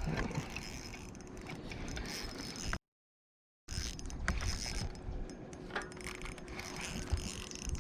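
Fishing reel ticking and clicking as it is worked, over a low rumble. The sound drops out completely for about a second, about three seconds in.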